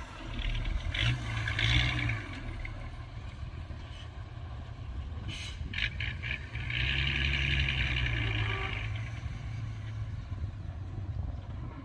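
Heavy diesel engine of an earthmoving machine running under load. It swells twice, briefly near the start and for a couple of seconds in the middle, with a short metallic clatter in between.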